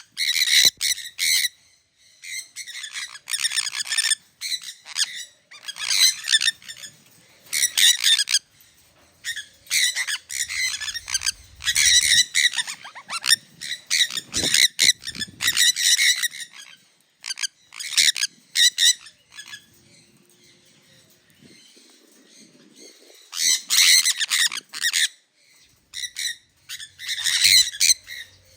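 Sun conures screeching: loud, harsh, high calls in repeated bursts, with a quieter lull about two-thirds of the way through.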